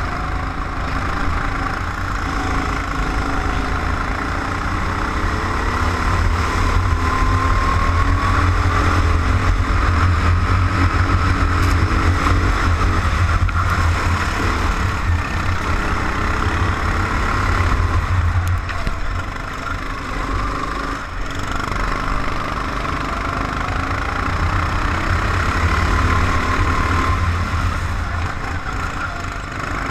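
Vehicle engine running under way, heard onboard, its pitch slowly rising and falling as the revs change, over a heavy low rumble.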